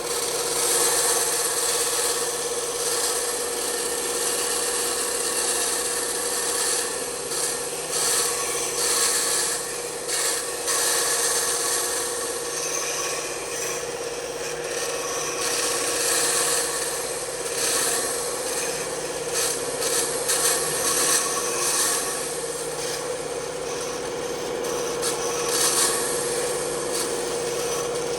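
Bandsaw running with a steady hum while its blade cuts into wood, the rasping cut noise swelling and easing as the piece is fed and turned into the blade.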